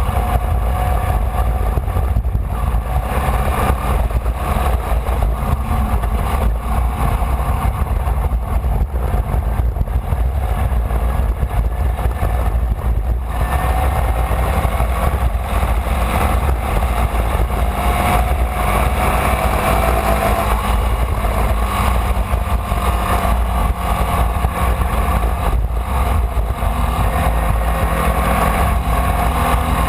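Onboard sound of a Formula Vee racing car, its air-cooled Volkswagen flat-four engine running hard at racing speed, the engine note rising and falling, under a heavy low rumble.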